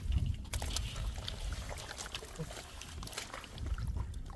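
Splashing and sloshing in shallow muddy water, with many short sharp clicks and splashes over a low rumble.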